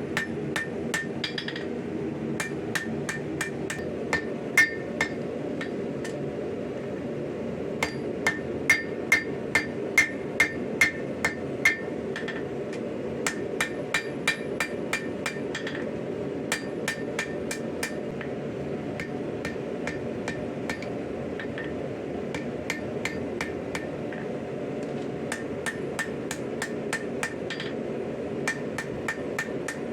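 Hammer blows on a blade of 5160 spring steel against an anvil, forging the knife, each strike ringing briefly. The blows come at about two a second in runs, heaviest in a run in the middle, with a steady background noise beneath.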